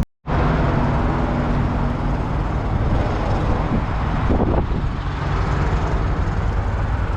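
Steady wind noise buffeting the microphone over the constant drone of a Kenworth T680 semi truck's diesel engine, after a brief dropout at the start.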